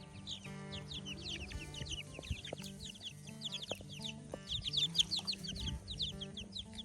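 A brood of baby chicks peeping constantly: many short, high, downward-sliding cheeps overlapping each other.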